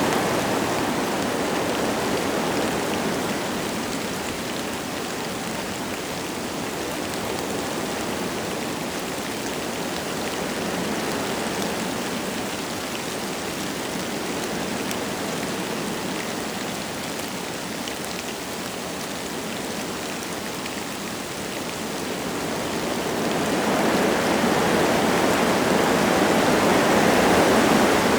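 Wind gusting through forest trees, with light rain falling. The rush of the wind eases through the middle and swells again with a stronger gust near the end.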